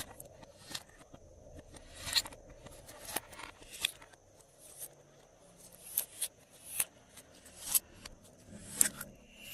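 Glossy slime being worked by hand, giving irregular sticky clicks and pops, about one or two a second.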